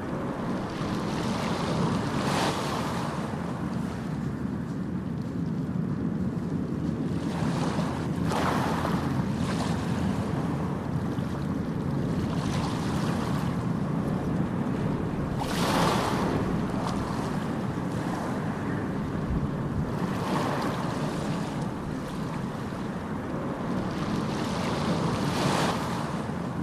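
Ocean surf: a steady low rush of water with a wave breaking and hissing about every five to seven seconds, five times over.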